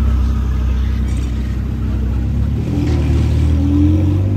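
Ferrari 488 Pista's twin-turbo V8 running at low speed as the car pulls away slowly, a steady low rumble with a brief rise in revs about three seconds in.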